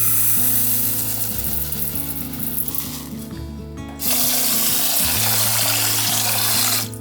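Tap water running into a sink in two spells. The first runs at the start and eases off about three seconds in. The second, louder, comes on suddenly about four seconds in and cuts off near the end, as the tap is turned on and off. Soft background music plays underneath.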